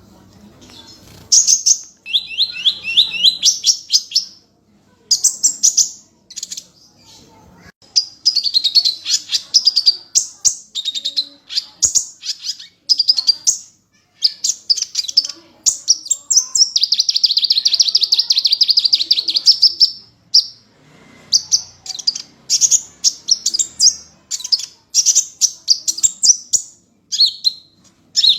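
A small songbird, a sunbird (Indonesian 'kolibri'), singing loud, fast, high-pitched trills in repeated phrases of a second or two, with short pauses between them and one longer unbroken trill past the middle.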